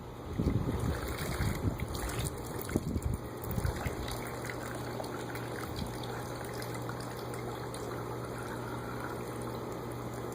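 Water running and trickling steadily over a steady low hum, with low rumbling bumps during the first four seconds or so.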